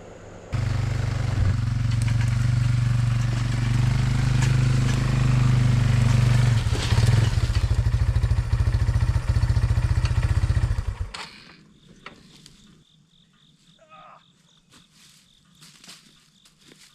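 A small vehicle's engine running steadily. It cuts in abruptly about half a second in and stops about eleven seconds in, leaving only faint clicks and rustling.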